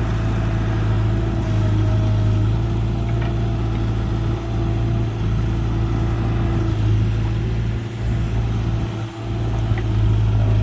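Diesel farm engine running steadily at constant speed, a low even hum, with two brief dips in level near the end.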